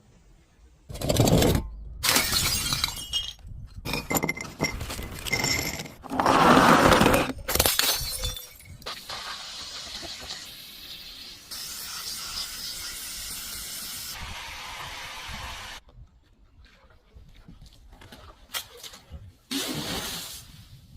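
Glass shattering: a run of loud breaks and crashes over the first eight seconds or so, then a quieter, steadier stretch of noise, and a few more sharp breaks near the end.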